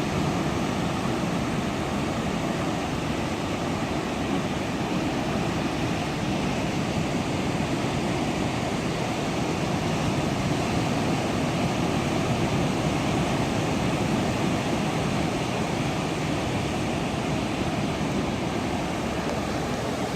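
Steady rushing noise of sea surf on a beach, even in level with no single wave standing out.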